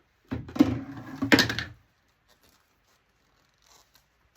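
A monitor part being handled and tossed into a scrap bin: a clatter with two sharp knocks, about half a second and a second and a half in.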